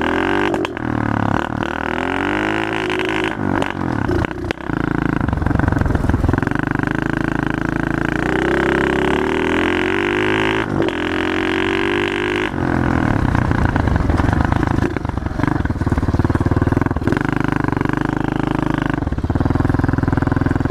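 110cc pit bike's single-cylinder engine under way, the note climbing in pitch several times and dropping back as it accelerates and changes gear, then holding a steadier note in the second half.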